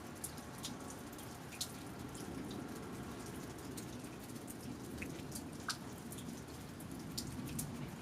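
Steady rain falling, with scattered drops dripping and tapping close by in irregular, sharp ticks.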